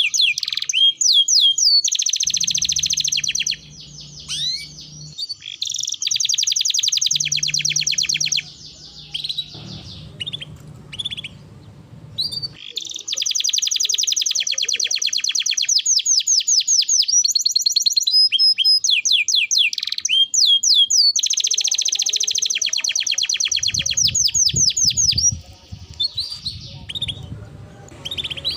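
Domestic canary singing: several long rolls of very fast repeated high notes, broken up by sweeping chirps. A low hum sits underneath in some stretches.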